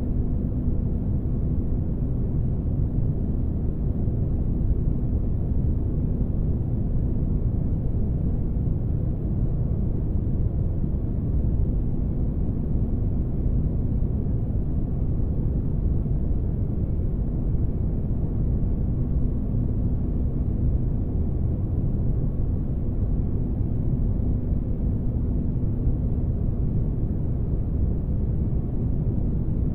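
Synthesized spaceship-interior ambience: a steady, deep rumbling drone with a faint hum riding on it that comes and goes.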